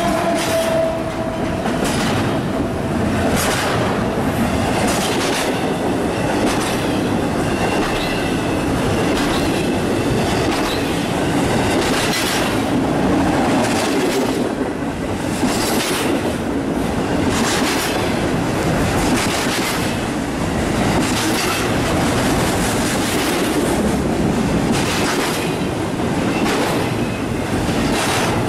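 Intermodal freight train cars loaded with double-stacked containers and trailers rolling past close by: a steady rolling rumble with the wheels clicking over rail joints again and again.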